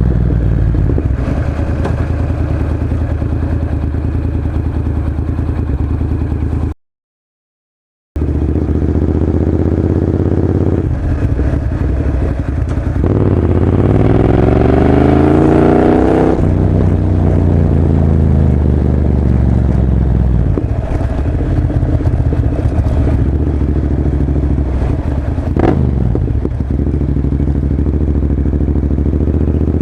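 Honda NC700S's parallel-twin engine idling through a Leo Vince carbon exhaust, revved once around the middle, rising for a few seconds before falling back to idle. The sound drops out completely for over a second about a quarter of the way in, and there is a single sharp crack near the end.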